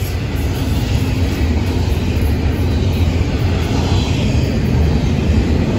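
Double-stack container cars of a freight train rolling past at speed: a loud, steady rumble of steel wheels on the rails.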